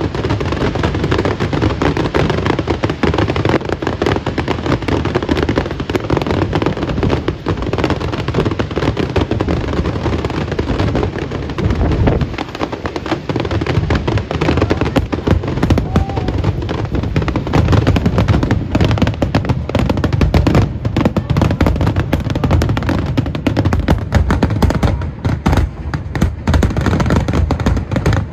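Aerial fireworks display: a dense, continuous barrage of many overlapping bursts and crackles, easing briefly about twelve seconds in.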